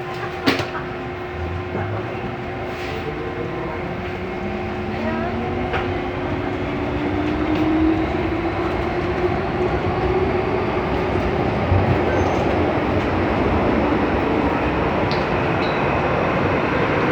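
MTR M-train electric multiple unit pulling away and accelerating. The traction motors' whine rises steadily in pitch while wheel-on-rail noise builds. There is a sharp click about half a second in.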